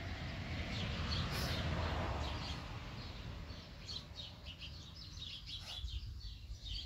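Small birds chirping, with short high chirps coming thick and fast in the second half. Underneath is a low rushing noise that swells and fades in the first few seconds.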